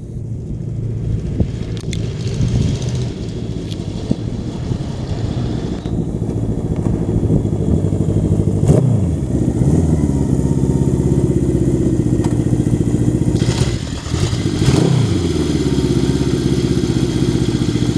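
Honda CB750 K2's air-cooled inline-four engine running under way. The revs swing sharply up and back down twice, about nine and fifteen seconds in, and between and after those the engine holds a steady note.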